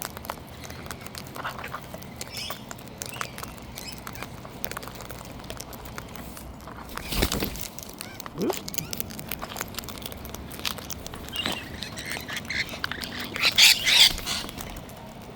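Wild cockatoos calling at close range: scattered harsh squawks, the loudest in a burst near the end, over light clicking and tapping.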